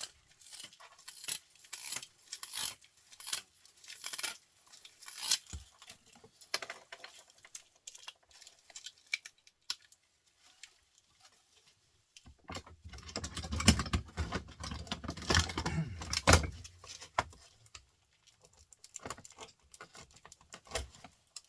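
Copper winding wire being pulled off a small printer motor's coil by hand, with light metallic clicks and jingles. About two-thirds of the way through there is a longer, louder stretch of rattling and rustling.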